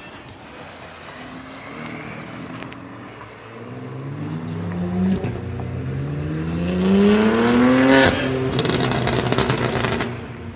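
A vehicle's engine accelerating hard. Its revs climb, drop once at a gear change about five seconds in, then climb again to a peak near eight seconds before falling away.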